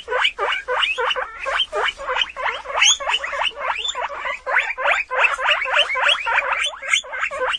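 Guinea pig squeaking: a quick, continuous run of short high-pitched squeaks, about five or six a second.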